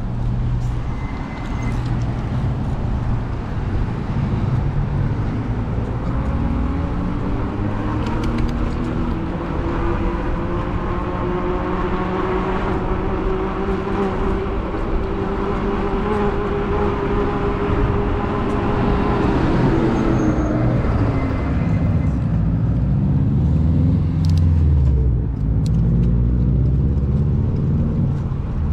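Road traffic heard from a bicycle on a city street: motor vehicle engines climb slowly in pitch as they pull away and then drop off about two-thirds of the way in, and another vehicle's engine falls in pitch near the end, over a steady low rumble.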